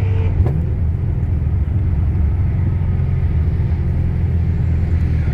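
Holden VE Commodore SS's modified 6.0-litre V8 running at low, steady revs, a deep even rumble heard from inside the car. A short click comes about half a second in.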